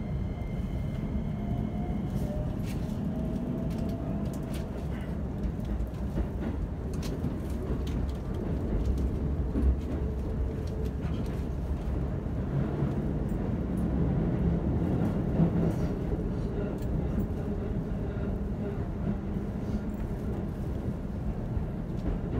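Commuter train running, heard from inside the passenger car: a steady low rumble of wheels on the track with scattered faint clicks.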